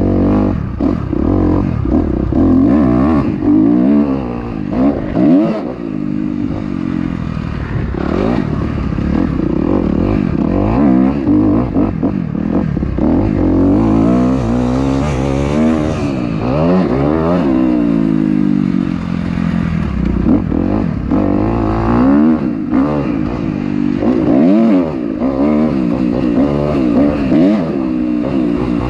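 Several motocross dirt bike engines revving up and down, their pitches rising and falling and overlapping.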